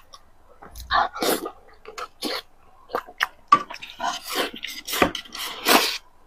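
Close-miked eating sounds: wet chewing and lip smacking on braised pork belly and rice, with irregular sharp clicks and a few short, breathy slurping noises.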